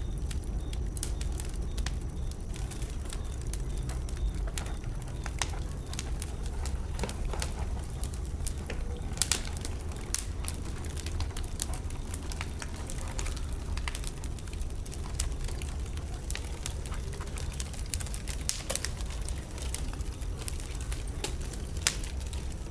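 Wood bonfire burning, crackling with irregular sharp snaps and pops over a steady low rumble.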